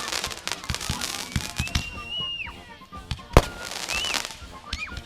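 Fireworks going off: a rapid string of cracks and pops, with one loud bang about three and a half seconds in. Through it run whistling tones that rise, hold and then drop away.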